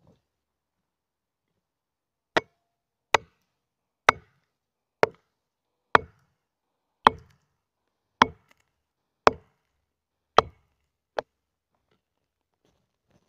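An axe chopping wood: ten sharp strokes at about one a second, the last one lighter.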